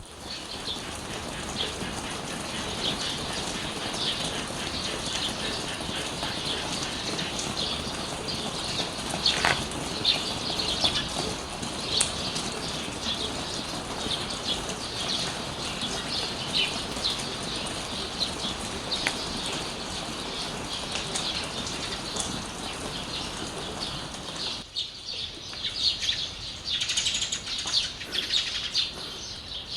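Small birds chirping over a steady hiss of falling rain. About 25 seconds in, the rain hiss drops away abruptly and the chirping becomes busier and clearer.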